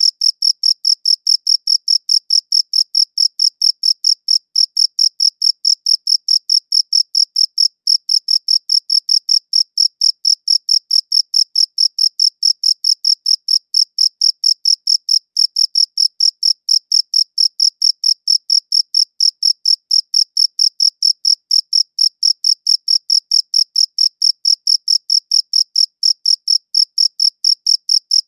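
A cricket chirping continuously in a fast, even rhythm of several high-pitched chirps a second, with no pause or change.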